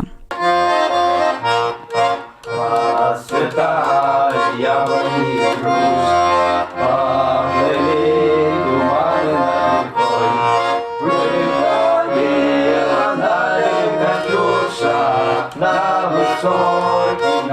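Accordion playing a tune, with held chords over a bass line.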